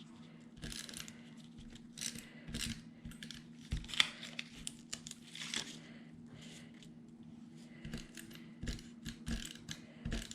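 A pen drawing short dashes on paper: a string of brief, irregular scratchy strokes with a few light taps.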